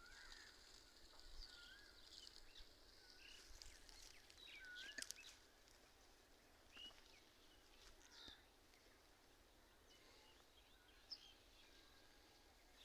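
Faint birdsong: scattered short chirps and whistled calls from small birds, busiest in the first few seconds and thinning out later.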